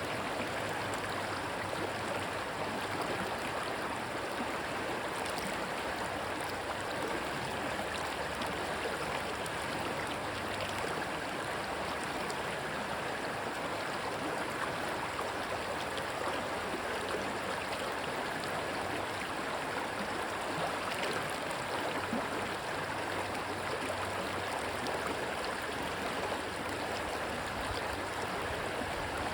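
Rushing water of a stream, a steady, unbroken sound.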